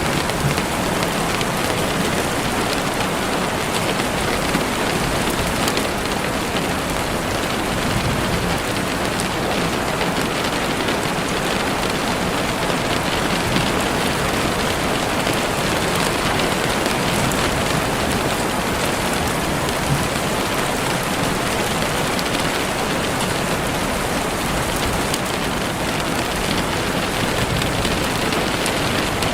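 Heavy rain falling steadily on leaves and the forest floor: a dense, even hiss of many drops with no let-up.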